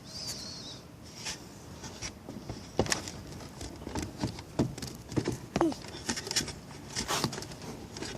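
Irregular knocks, taps and rustles, several a second at times, over a faint hiss: handling and movement noise close to the microphone.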